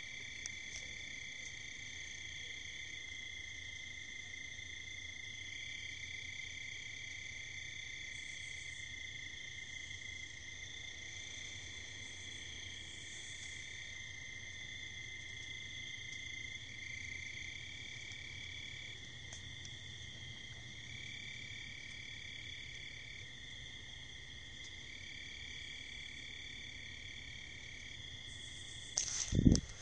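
Night insect chorus: crickets trilling steadily in several high, unbroken pitch bands. A brief loud noise cuts in near the end.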